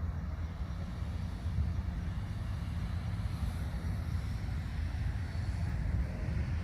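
A steady, noisy low rumble with no clear pitch.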